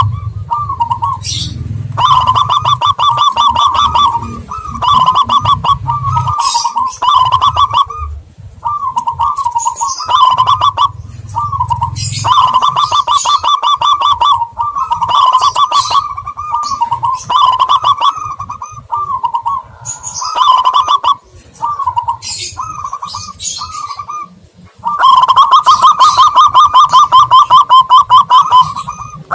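Doves cooing in fast rolling trills, phrase after phrase with short breaks and a long unbroken trill near the end, with high chirps of smaller birds in between: a lure recording for zebra doves and spotted doves.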